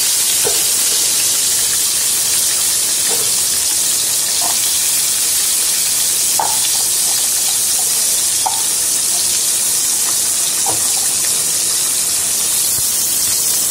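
Sliced shallots frying in hot oil in a frying pan, a steady, even sizzle.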